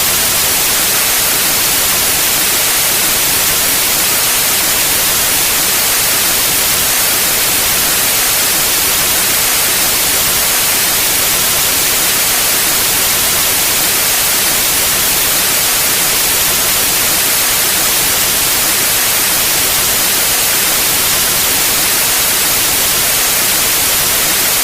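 Steady white noise: an even, unbroken hiss spread over all pitches, brightest in the highs.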